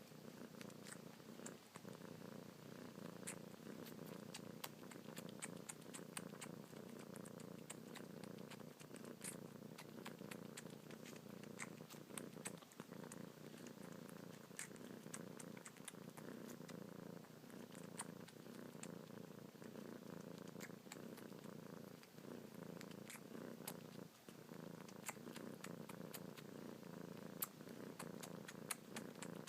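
Kitten purring steadily and continuously while suckling on a finger, with many faint, irregular small clicks from the sucking.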